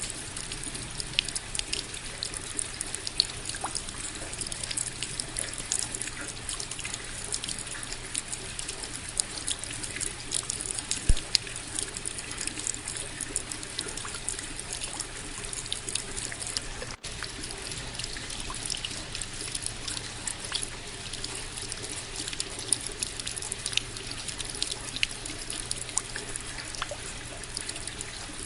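Steady rain falling, a continuous hiss of water thick with small, sharp drop patters and trickling runoff, with one louder drop about 11 seconds in.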